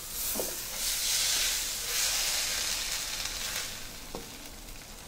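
Hot kimchi fried rice sizzling as it is pushed out of a wok into a bowl with a wooden spatula; the hiss swells about a second in and eases off near the end. A couple of light knocks, one shortly after the start and one near the end.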